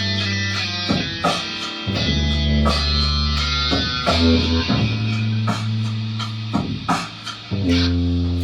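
Instrumental rock passage: electric guitar and bass guitar playing held low chords that change every second or two, punctuated by sharp drum hits.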